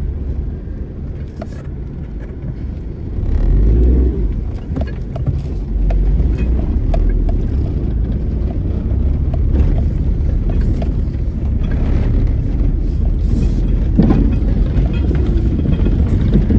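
Vehicle driving off-road over rough ground: a steady low engine and road rumble with scattered knocks and rattles, growing louder about three seconds in.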